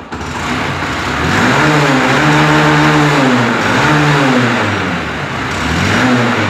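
BS6 Honda Shine's single-cylinder four-stroke engine starting and then being revved up and down about three times. It runs cleanly now that its failed ACM plate, blown fuse and broken spark plug have been replaced, curing its no-start and stalling fault.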